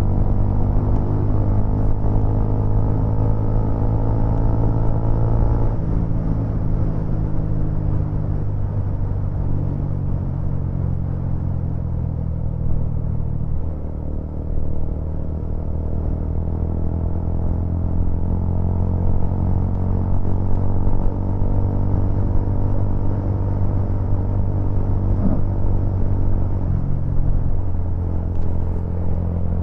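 Motor vehicle engine running on the move, its pitch dropping about six seconds in, again near the middle, and changing once more near the end, as with gear or speed changes.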